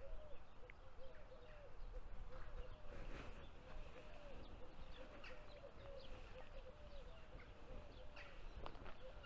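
Faint birdsong: scattered short high chirps over a soft low note that repeats about two or three times a second.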